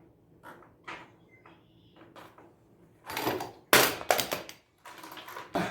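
A hand tool dropped, hitting the floor with a loud crash about three and a half seconds in and clattering several more times as it bounces and settles.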